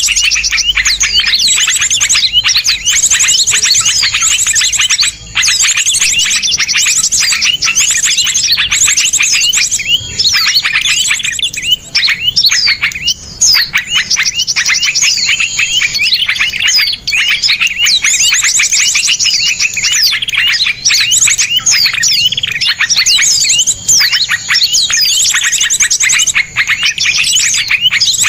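A dense chorus of small songbirds singing without pause: rapid high-pitched chirps and fast rattling trills overlapping one another, with only a few momentary breaks.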